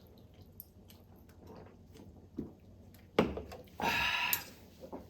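Quiet eating and drinking sounds at a table: a few small clicks, a sharp knock a little after three seconds in, then a short loud breathy noise about four seconds in.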